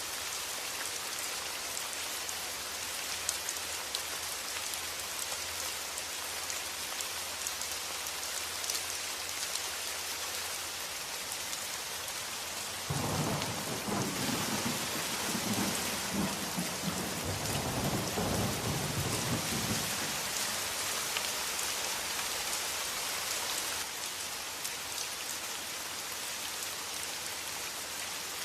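Steady rain, with a low rumble of thunder that starts suddenly about halfway through and fades out after several seconds.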